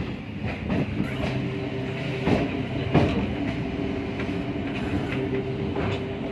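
A train running along the track, its wheels clicking irregularly over rail joints above a steady low hum, with the sharpest clicks a little over two and three seconds in.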